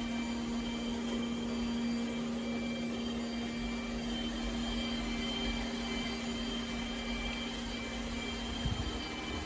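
iRobot Roomba Combo j7+ robot vacuum running: a steady motor hum with a faint whine over the noise of its suction. There is a light knock near the end.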